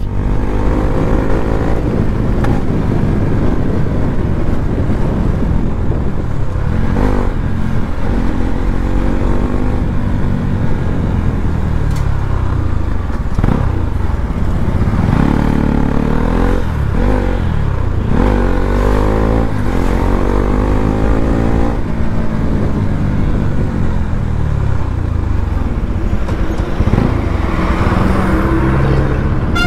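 Bajaj Pulsar NS200's single-cylinder engine pulling the bike along, its pitch rising and falling over and over as the rider opens and closes the throttle through the gears, over a steady rush of wind.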